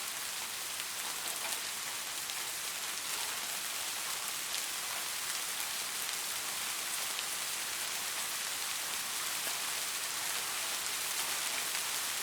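Steady rain falling, an even hiss with scattered faint drop patter.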